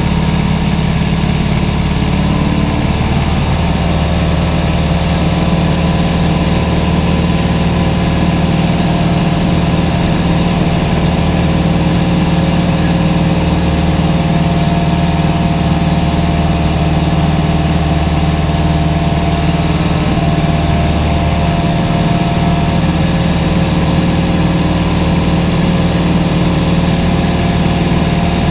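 Propeller aircraft engine droning steadily in flight, heard from inside the cabin, with a slight shift in pitch about three seconds in.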